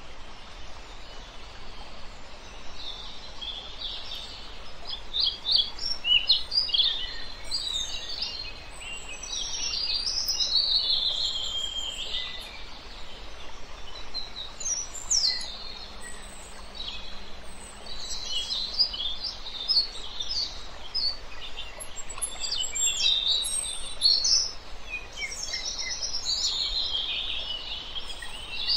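Several birds singing, with quick high chirps and short trills coming in clusters, over a steady background hiss.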